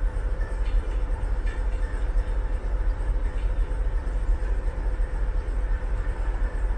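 Electric multiple-unit passenger train approaching at a distance: a heavy, fluctuating low rumble under a steady hum, with a few faint clicks.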